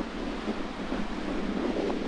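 Strong wind buffeting the microphone in uneven gusts, with sea surf washing underneath.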